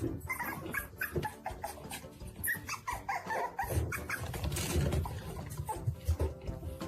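A dog whimpering in many short calls that bend up and down in pitch, with some low thuds in the latter half.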